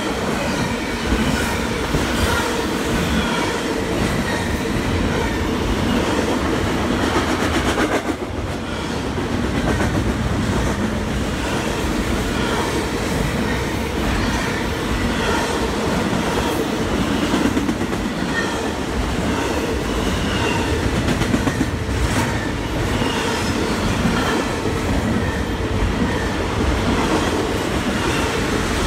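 Double-stack container freight train passing close by at speed: a steady, loud rumble of steel wheels on the rails, with a brief dip about eight seconds in.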